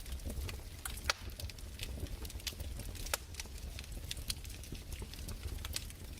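Crackling wood fire: irregular sharp pops and snaps over a low, steady rumble, with the loudest snaps about a second in and about three seconds in.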